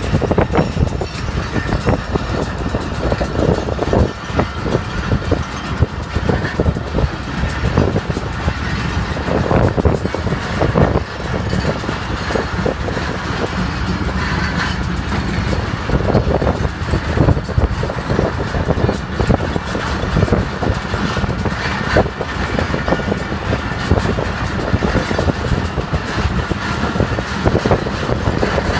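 Passenger train running on the rails: a steady rumble with irregular clattering knocks.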